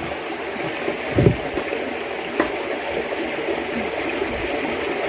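Steady rush of running water, with a dull thump about a second in and a short sharp click near halfway.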